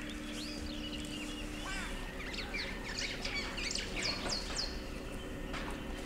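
Several birds calling: a busy chorus of quick, downward-sweeping chirps. A faint low hum fades out about a second and a half in.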